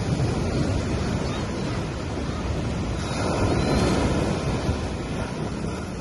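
Gentle sea waves washing onto a sandy beach, swelling about three seconds in and then easing.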